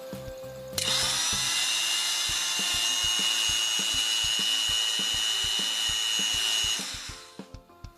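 Dremel 3000 rotary tool running against a workpiece: a steady high whine over grinding noise. It starts abruptly about a second in and dies away about a second before the end.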